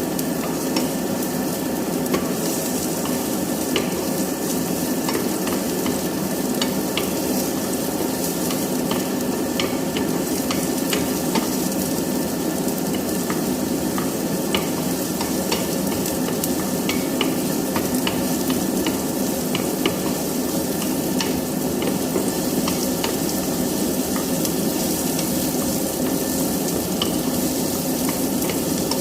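Garlic and onion frying in hot oil in a pan: a steady sizzle with scattered small pops and crackles.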